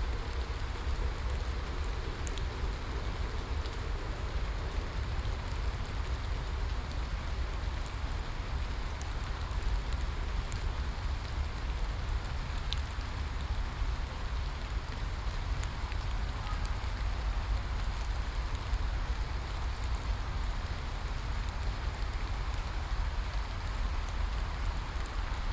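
Steady rain falling, with a continuous hiss, a deep low rumble beneath it and scattered faint drop ticks.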